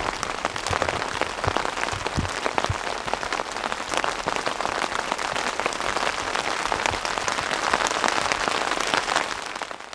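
Steady heavy rain falling on the camp tarp: a dense patter of drops with a few heavier drips, fading out near the end.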